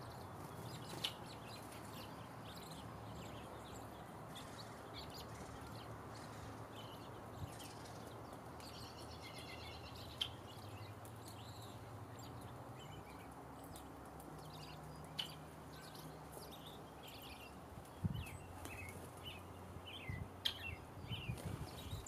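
Wild birds giving scattered short chirps and calls, with a brief trill about nine seconds in, over a faint steady low hum. A few low knocks come near the end.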